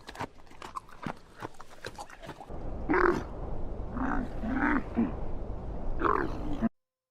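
An animal giving four short, low calls, each rising and falling in pitch, after a stretch of scattered clicks and knocks. The sound cuts off abruptly near the end.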